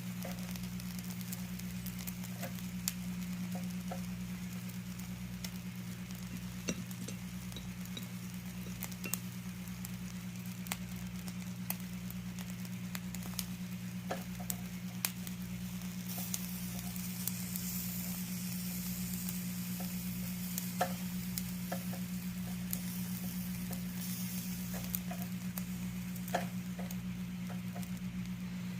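Squid grilling on a hot surface, sizzling with scattered pops and crackles; the sizzle swells for a while in the latter half. A steady low hum runs underneath.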